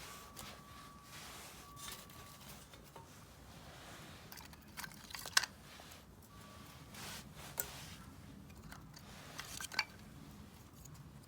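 Wood fire burning in a Solo Stove Campfire fire pit, crackling with scattered sharp pops, the loudest about five seconds in and near the end.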